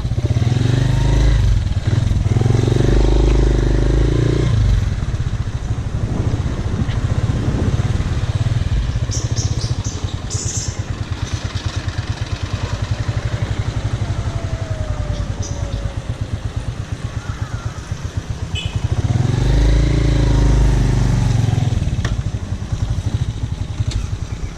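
Honda TMX 125 Alpha motorcycle's single-cylinder engine running on the move, with road and wind noise; the engine pitch rises and falls near the start and again about twenty seconds in.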